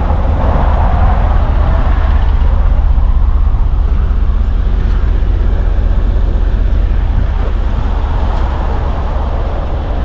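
A vehicle running: a steady low rumble with an even hiss above it.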